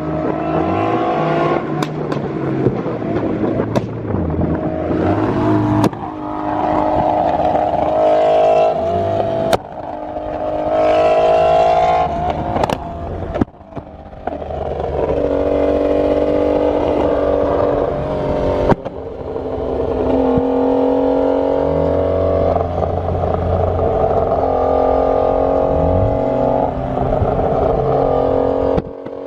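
Supercar engines revving and accelerating hard, one run after another, each holding a high engine note for a few seconds.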